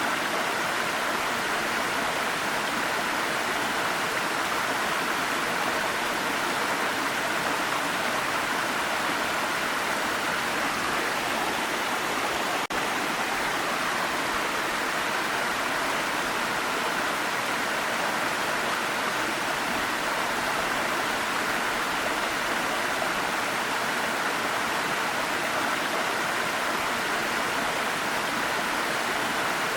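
Waterfall: a steady, even rush of falling water, with a momentary dip about halfway through.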